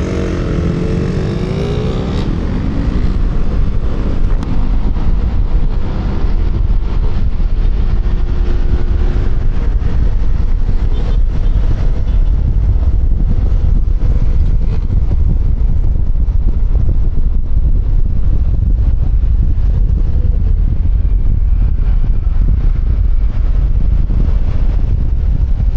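QJMotor Fortress 160 scooter's single-cylinder engine accelerating, its pitch rising over the first couple of seconds. Then a steady low wind rumble on the helmet-mounted microphone takes over at cruising speed, with the engine's tone faint beneath it.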